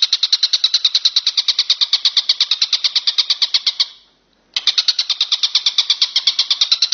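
Walang kecek katydid stridulating: a shrill, rapid ticking trill of about ten even pulses a second. It breaks off briefly near the middle and then starts again.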